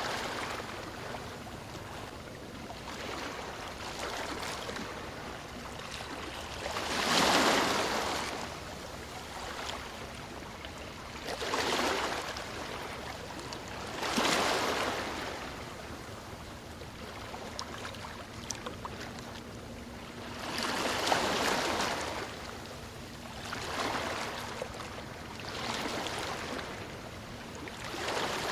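Ocean waves breaking and washing up on a shore, rising and falling in swells of hissing surf every two to four seconds. The biggest wash comes about seven seconds in.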